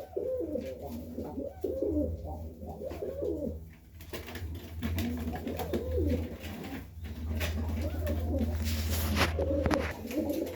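Serbian Highflyer pigeons cooing in the loft, several wavering, rolling coos overlapping one after another over a low steady hum, with a few sharp knocks or flaps near the end.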